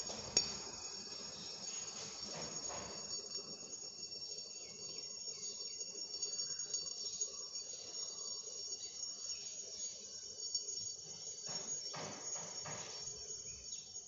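Steady high-pitched insect chirring, with one sharp click about half a second in.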